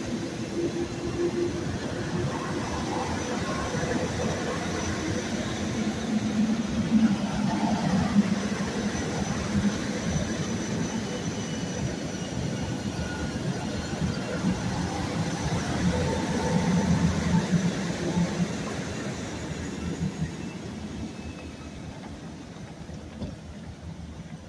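SEPTA Silverliner IV electric multiple-unit train pulling out past the platform, its wheels rumbling and knocking on the rails. It swells twice as the cars go by, then fades as the train pulls away.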